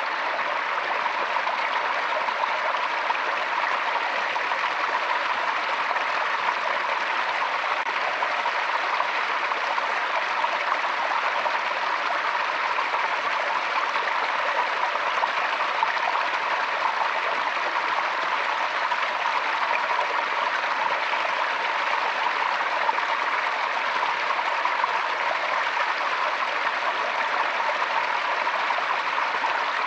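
Forest stream flowing over rocks, a steady rush of water with trickling and gurgling.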